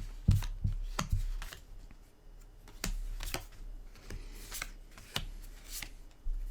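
Magic: The Gathering cards being flipped through by hand, card by card: irregular sharp flicks and slides of card stock.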